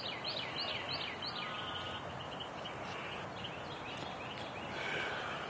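A bird calling: a quick run of short high chirps, about four a second, for the first second and a half, then scattered fainter chirps, over a steady background hiss.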